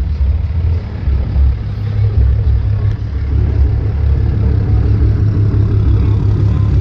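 A truck engine running with a steady low rumble, heavy in the bass.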